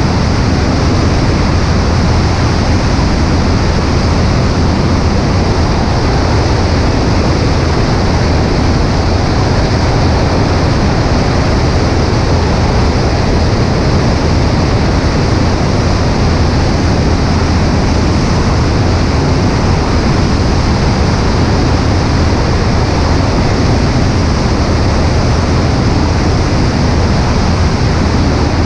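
Cessna 140A's engine and propeller running steadily in flight, mixed with heavy wind rush over a microphone on the right wing.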